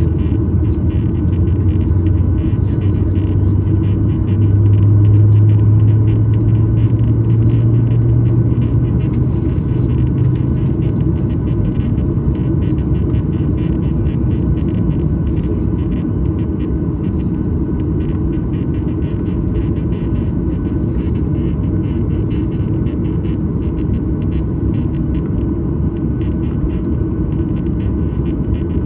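Cabin noise of a Boeing 737-900ER, its CFM56-7B engines and airframe giving a steady drone and rumble. A low hum rises slightly in pitch and swells over the first ten seconds, then fades into the even rumble.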